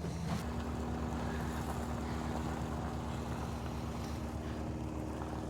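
A motor vehicle engine running steadily at idle, a low, even hum that sets in about half a second in.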